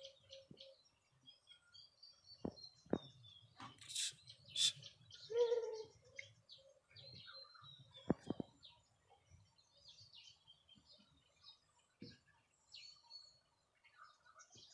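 Small birds chirping and tweeting on and off, faint, with a few sharp knocks and a short lower call about halfway through.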